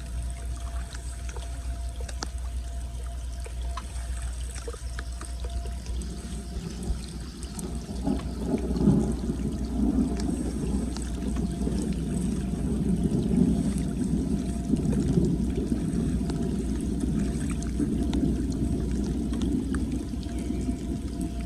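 Floodwater pouring and gurgling down a street storm drain, the flow growing heavier about eight seconds in, over a steady low rumble.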